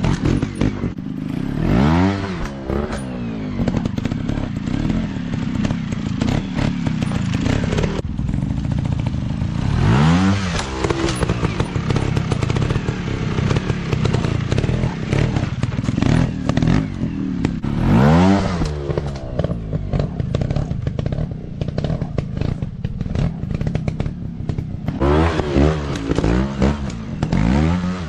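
Dirt bike engines running, revving up and dropping back again and again, with clattering and knocks throughout.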